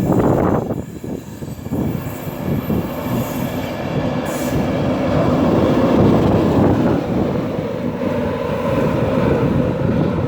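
LNER Class 91 electric train pulling out and running past, a steady rumble of wheels on rail that swells toward the middle. Wind buffets the microphone.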